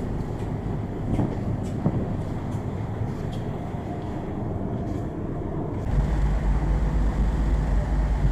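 Steady low rumble of a passenger ship's engines, heard on board; about six seconds in it turns abruptly louder and deeper, with a strong low hum.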